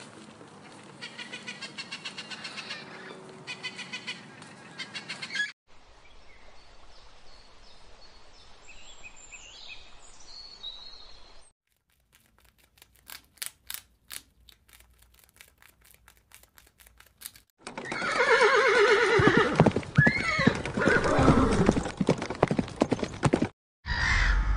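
A run of separate animal sounds: parrots calling rapidly, then a quieter stretch with a few high chirps, then a run of sharp clicks while a rat eats. A horse whinnying loudly for several seconds is the loudest part, and ducks start quacking just at the end.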